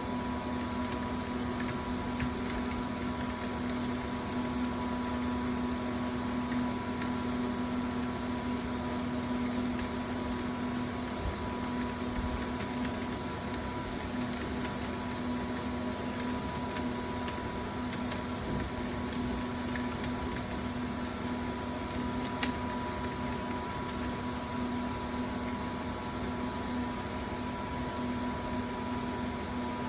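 Steady machine hum over a hiss, holding two fixed tones, with a few faint clicks.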